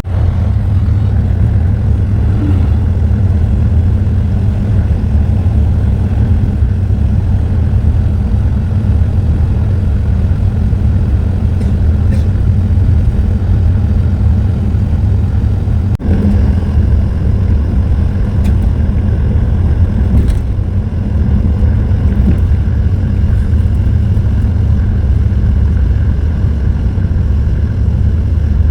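Scania Metrolink coach on the move, a steady low rumble of engine and road noise heard inside the cabin. There is a single short knock about sixteen seconds in.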